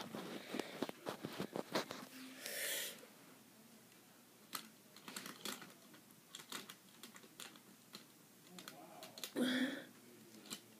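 Quick small clicks and taps of plastic model railway pieces being handled on the track, dense in the first couple of seconds and then scattered, with a brief rustle or breath twice.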